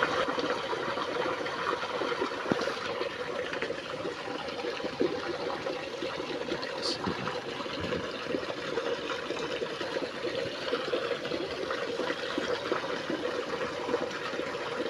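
Water running steadily in an irrigation channel, an even rushing trickle.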